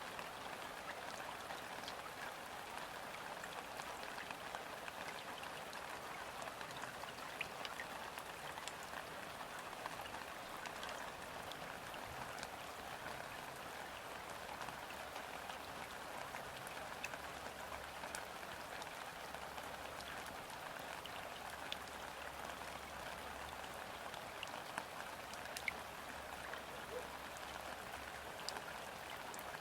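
Steady gentle rain falling onto a river's surface: an even patter with scattered individual drop ticks.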